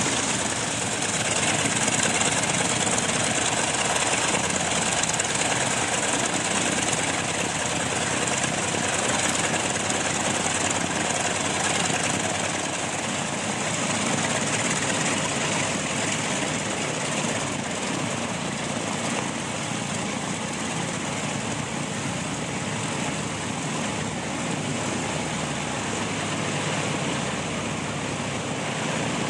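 Piston aircraft engines and propellers running on the ground at a loud, steady drone, as in an engine run-up to check for full power.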